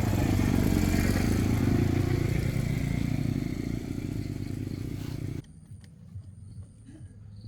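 Vehicle engine running steadily, then cutting off suddenly about five seconds in, after which only faint knocks remain.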